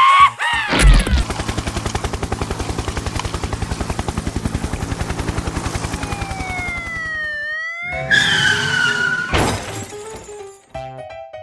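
Cartoon sound effects: a fast, even rattling pulse for several seconds, then sliding whistle-like tones, a wavering wail and a sharp crash near the end.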